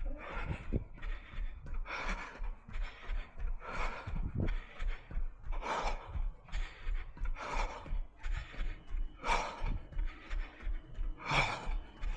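A runner breathing hard mid-run, with a heavy breath about once a second and footfalls thudding underneath.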